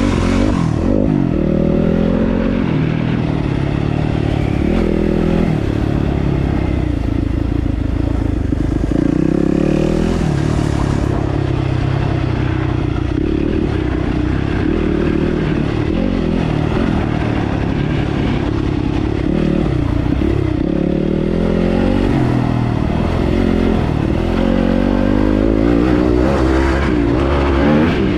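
Dirt bike engine running hard on a trail ride, revving up and dropping off over and over as the throttle is worked and gears change.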